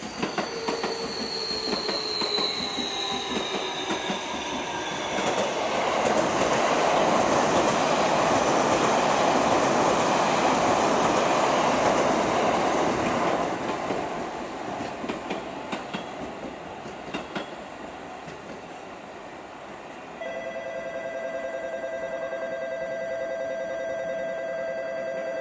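Electric commuter train passing through the station: a falling motor whine in the first few seconds, then a loud rushing of wheels on rail for about eight seconds that fades away. About twenty seconds in, a steady two-tone sound starts and holds to the end.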